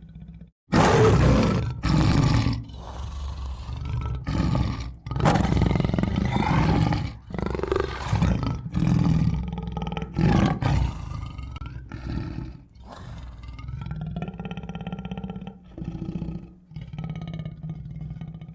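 Tiger roaring and growling: a run of loud roars, one after another, for the first half or so, then lower, steadier growling.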